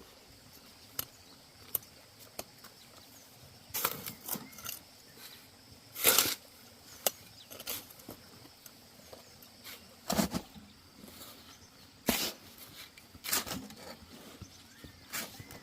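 Irregular knocks and scrapes, a dozen or so spaced unevenly, the loudest about six seconds in.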